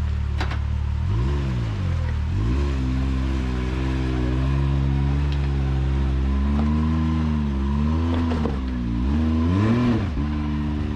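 Side-by-side UTV engine working up a rocky climb, its revs rising and falling in repeated blips of the throttle, with a faint steady whine above it.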